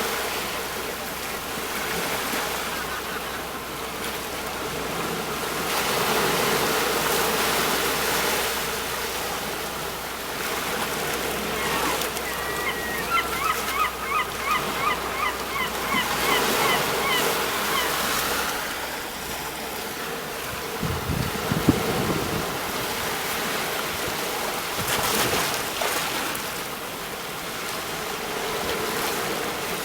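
Sea waves breaking on a shore, a steady wash of surf that swells and ebbs every few seconds. About twelve seconds in, a bird calls in a quick run of short repeated notes for about six seconds.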